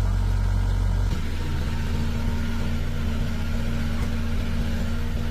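A large engine running steadily at a low, even pitch. Its tone changes abruptly about a second in, then holds steady again.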